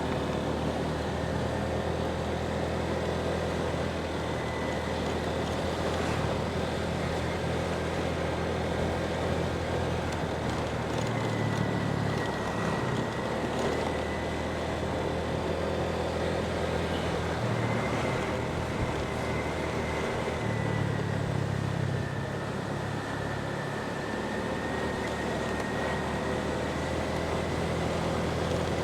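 Motorbike engine running under way, its pitch rising and falling as the speed changes, over steady wind and road noise.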